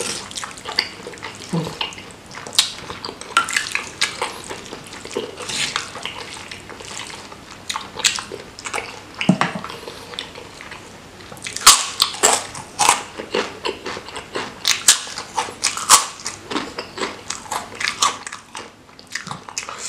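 Close-miked chewing of soft, chili-sauce-soaked krupuk crackers: a steady run of wet mouth smacks and clicks, with the loudest, busiest chewing about halfway through and again a little later.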